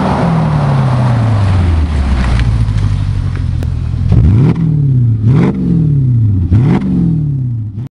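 Porsche Cayenne V8 through a stainless-steel aftermarket exhaust: the engine note sinks slowly as revs fall over the first half, then three quick throttle blips, each rising sharply and falling away. The sound cuts off suddenly just before the end.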